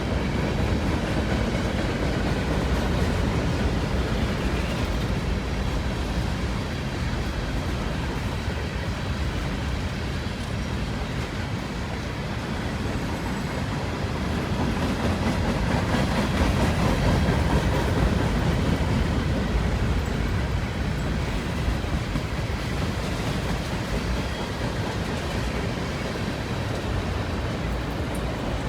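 Freight cars of a long Union Pacific mixed manifest train rolling past, a steady rumble of steel wheels on rail with some clickety-clack, a little louder around the middle.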